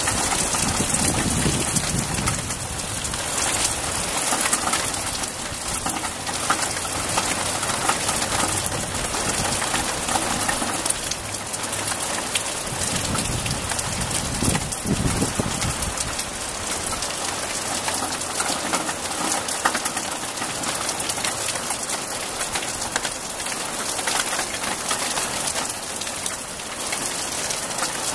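Steady rain falling on trees, grass and roofs, with low rumbles at the start and again around the middle.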